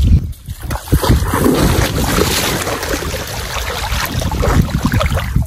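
Wind buffeting the microphone over water splashing around a small fishing boat, with a few sharp knocks in the first second.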